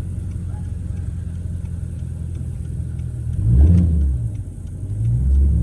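Car engine and road rumble heard from inside a moving car's cabin, with the engine swelling louder twice, briefly about three and a half seconds in and again near the end.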